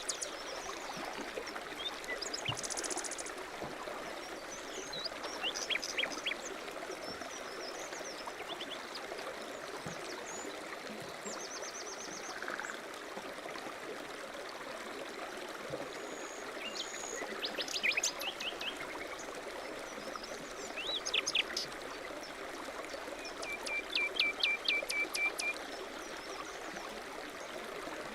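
A stream running steadily, with small birds chirping over it: scattered short calls, a few quick trills, and near the end a rapid run of about eight even notes.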